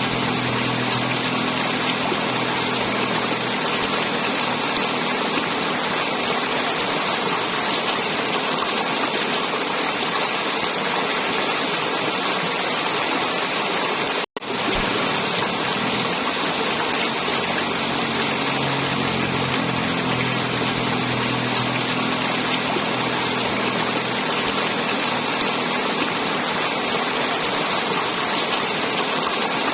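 River water flowing and gurgling in a steady rush. It cuts out completely for an instant about halfway through.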